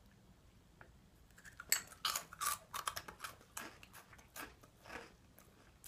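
Crisp jalapeño cheddar corn puff being chewed: a run of irregular crunches starting about a second and a half in, busiest in the middle and thinning out near the end.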